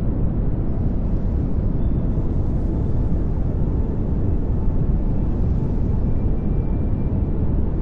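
Pink noise: a steady, even rushing hiss, heavier in the low end, with no change in level.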